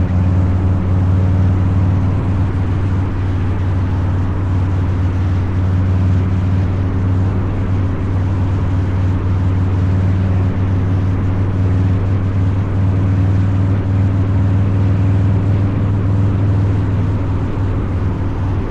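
Harley-Davidson Low Rider's 129 cubic inch V-twin engine with a Two Brothers Racing exhaust, running under way at a steady cruise. The exhaust note holds an even, unchanging pitch throughout.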